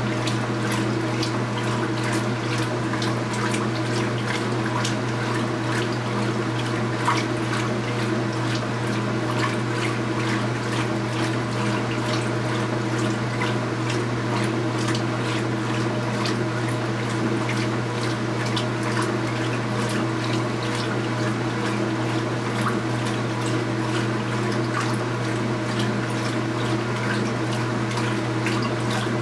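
A 2015 Speed Queen 8 Series top-load washing machine running mid-wash: a steady motor hum under continual water splashing and sloshing.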